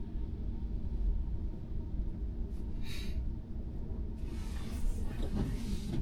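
Steady low tyre and road rumble heard inside the cabin of a Tesla Model Y electric car driving on a snow-covered road, with a brief hiss about halfway through.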